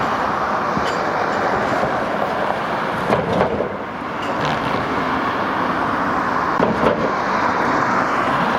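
Steady outdoor road-traffic noise, with brief louder swells about three and seven seconds in.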